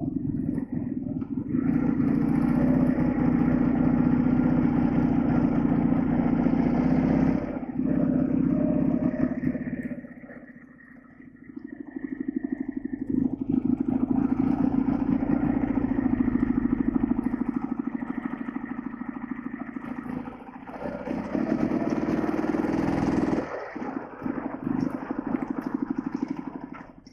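Heavy flat-twin motorcycle engine running under load as the bike is ridden. The engine eases off about a third of the way in, dropping to a lower, quieter note for a few seconds, then pulls again, with a brief dip once more near the end.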